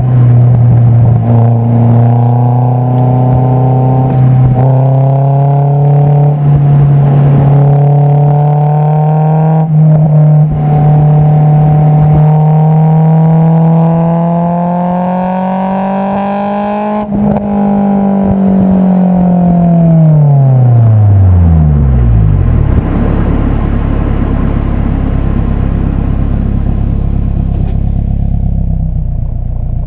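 Exhaust note of an AP2 Honda S2000's 2.2-litre inline-four through an Invidia Q300 cat-back, heard right at the tailpipe. The revs climb slowly with a few brief dips, then drop away to a low, steady idle-like running about two-thirds of the way in, and start rising again at the very end.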